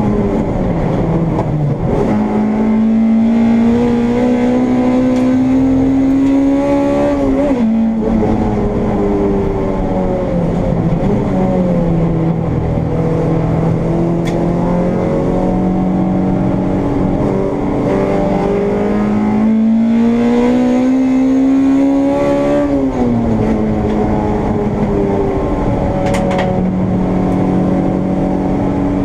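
Honda Integra race car's four-cylinder engine heard from on board at racing speed. The revs climb steadily for several seconds and then drop sharply, twice: about 7 seconds in and again about 23 seconds in. Between the climbs the revs fall back or hold steady.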